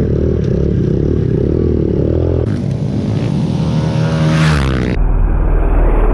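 Small single-cylinder pit bike engine running hard, its pitch climbing as it revs up over a second or two past the middle. About five seconds in the sound changes abruptly to a heavy low rumble.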